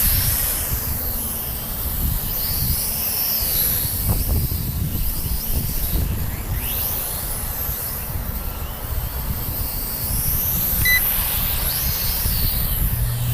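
Wind buffeting the microphone, with the high whine of a JJRC H33 mini quadcopter's small motors and propellers rising and falling in pitch as it flies. A short beep sounds near the end.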